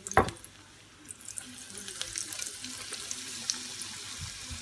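A knock near the start, then breaded pieces deep-frying in hot oil at medium heat: a steady sizzle with scattered crackles that sets in about a second in.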